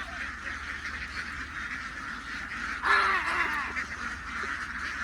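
A large flock of domestic ducks quacking continuously, many calls overlapping into a dense chatter, with a louder surge of calls about three seconds in.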